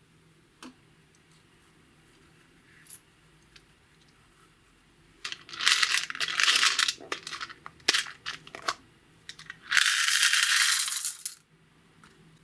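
Small hard objects clattering and rattling in a container: a dense rattle of about two seconds about five seconds in, then scattered clicks, then a second steady rattle of about a second and a half near the end.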